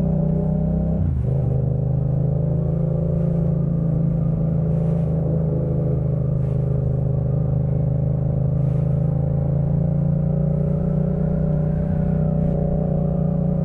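Yamaha MT-07's 689 cc parallel-twin engine breathing through a Jeskap K4 full aftermarket exhaust, running at a steady cruising speed with a quick dip in revs about a second in.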